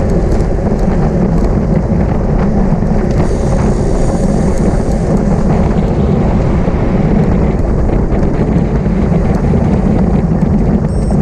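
Wind rushing over the microphone of a camera carried on a road bicycle at race speed, a loud, steady rumble.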